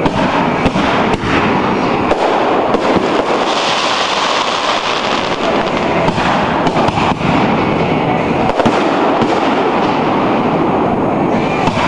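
Fireworks display going off in a dense, continuous barrage: many rapid, overlapping bangs and crackling with no let-up.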